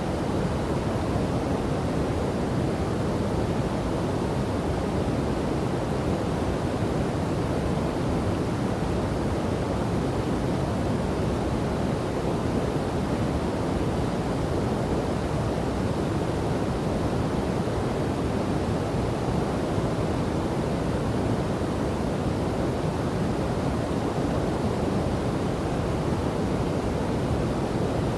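Steady rushing of a river and waterfall, falling water with a low, even roar and no change in level.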